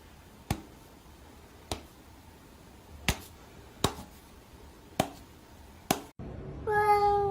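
Six sharp single clicks at uneven intervals over about six seconds. After a brief break comes a short pitched sound, lasting under a second and dropping slightly in pitch at the end.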